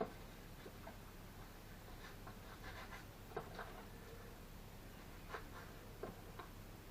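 Mortar being scraped and pressed into brick joints with a trowel and jointing tool: a series of short, faint scrapes and light taps.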